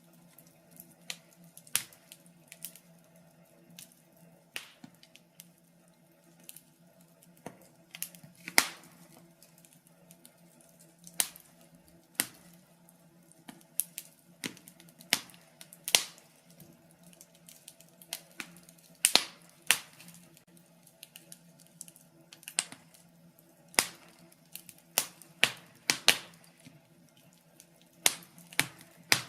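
Wood fire crackling in a fireplace: irregular sharp pops and snaps, some loud and some faint, up to a few a second with quieter gaps between, over a faint steady low hum.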